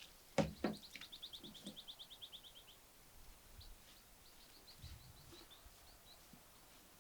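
Two sharp knocks about half a second in, then a small bird singing a fast trill of short high notes, about ten a second and gently falling, followed by softer scattered chirps.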